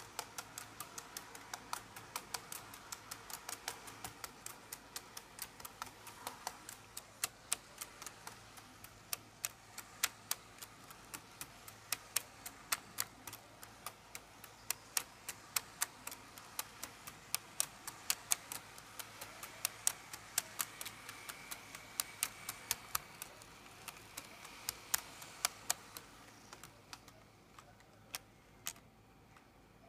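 Tomix model Shinkansen train running on its track: quick, uneven clicking of the wheels over the rail joints, several clicks a second over a faint motor hum. The clicks thin out and stop near the end.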